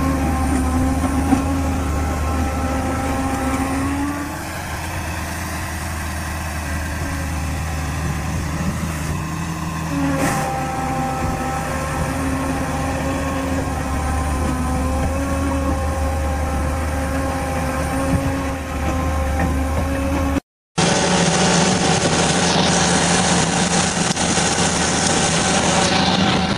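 Heavy machine's engine running steadily; its pitch drops about four seconds in and comes back up around ten seconds. About twenty seconds in the sound cuts out for a moment and a different engine carries on.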